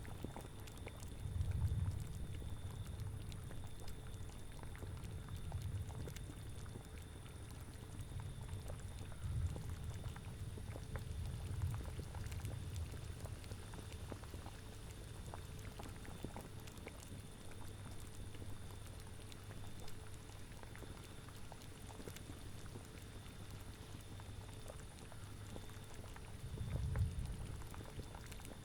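Cauldron of liquid bubbling at a steady boil, with a low rumble that swells and fades several times, strongest about a second and a half in and again near the end.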